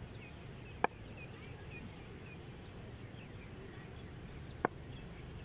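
A small bird calling a run of short, quick chirps in the first couple of seconds over a faint outdoor background. Two sharp clicks sound, one about a second in and one near the end.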